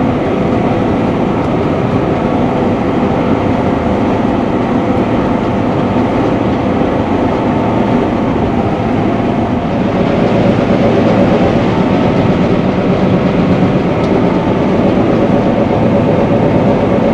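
Combine harvester running steadily while cutting rice: a continuous engine and threshing drone with a few steady whining tones, getting a little louder about ten seconds in.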